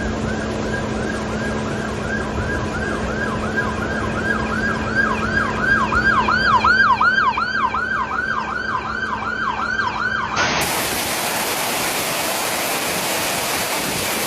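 Emergency vehicle siren in fast yelp mode, its pitch sweeping up and down about three times a second over a steady engine hum and traffic noise, growing louder and then easing. It cuts off abruptly about ten seconds in, giving way to the steady hiss of heavy rain.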